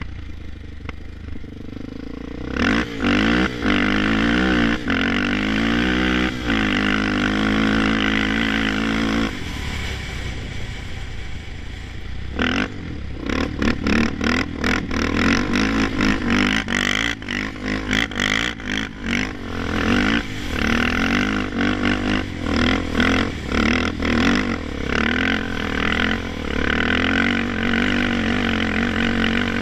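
Honda 400EX quad's single-cylinder four-stroke engine revving hard against the rev limiter, its pitch wavering and stuttering as the limiter cuts in. It starts quieter, goes loud a couple of seconds in, eases off for a few seconds around a third of the way through, then is pinned again.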